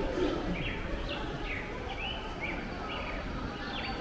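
Small birds chirping repeatedly in short, sweeping calls, about two a second, over a steady low background noise.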